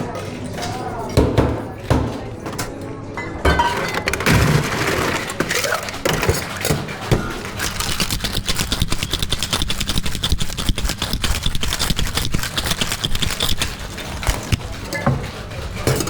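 Ice rattling hard inside a cocktail shaker, a fast dense run of impacts from a few seconds in until near the end. A few knocks and clinks come before it.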